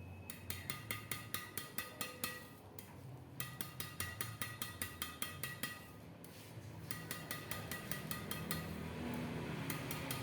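The freshly strung string bed of a Mizuno Promax ZX3 badminton racket with Toalson ION 65 string being tapped rapidly, each tap giving a short, bright ping. The tapping comes in three runs of about six taps a second, with brief pauses between them.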